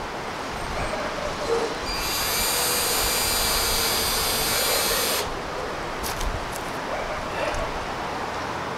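Power drill running steadily for about three seconds, starting about two seconds in and stopping abruptly, followed by a few light clicks.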